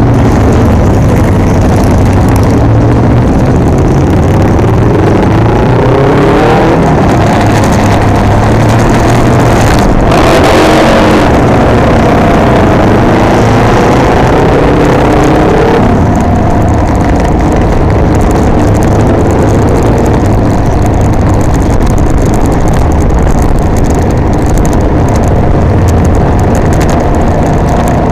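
Can-Am Ryker Rally three-wheeler's engine heard on board while riding, with wind noise; the engine pitch rises and falls through acceleration and gear changes between about 6 and 16 seconds in, then settles to a steadier cruise.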